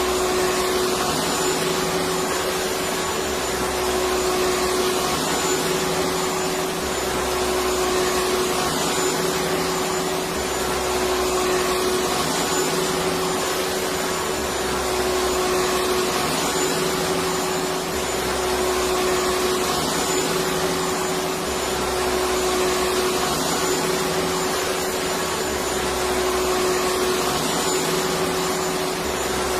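Electric vacuum cleaner running steadily: an even rush of air noise with a constant motor whine, unchanging throughout.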